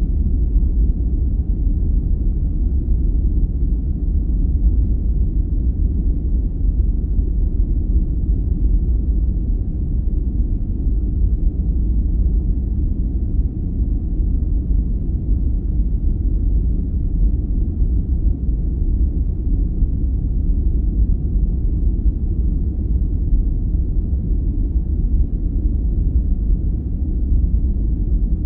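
Steady, deep sleep noise played as an insomnia aid: an even, muffled noise weighted heavily toward the bass, with no high hiss and no distinct events.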